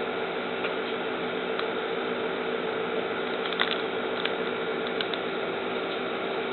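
Steady hum and hiss, with a few light clicks about halfway through.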